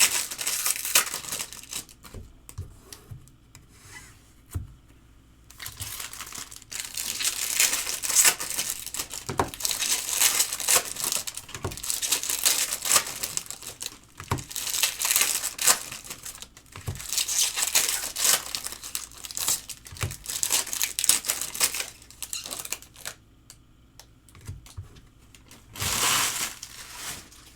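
Trading card pack wrappers being torn open and crinkled, in several long stretches of rustling with short pauses between them and a last brief burst near the end.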